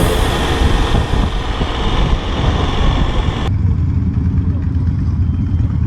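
Motorcycle on the move: a steady, loud low rumble of engine and wind. The higher hiss drops away abruptly about three and a half seconds in, leaving the low rumble.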